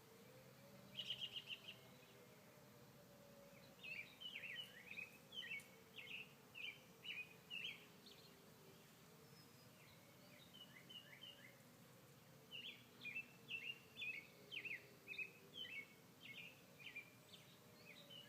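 A faint, continuous wavering hum of unknown origin in the sky: two overlapping tones slowly glide up and down in pitch, sounding electronic and like howling or spooky police sirens. Over it a songbird gives quick repeated chirps in two runs of several seconds each, the first starting about four seconds in, the second about twelve seconds in.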